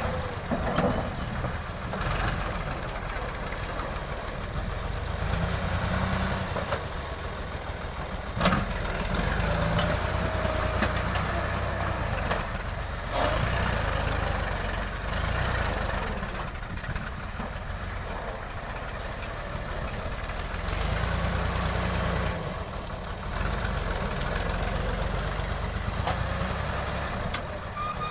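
New Holland Ghazi diesel tractor engine running, its pitch and level shifting every few seconds, with a sharp knock about eight seconds in.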